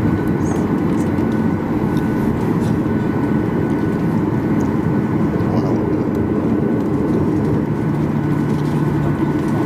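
Steady engine and cabin noise inside a Boeing 737-800 with its CFM56-7B turbofans running, a dense even rumble with faint steady whines above it. A low steady hum joins briefly near the end.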